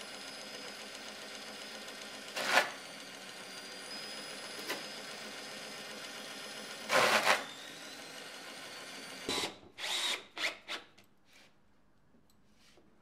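An electric motor-driven machine running steadily with a high whine, broken by two loud bursts. It cuts off about nine seconds in, followed by a handful of separate knocks.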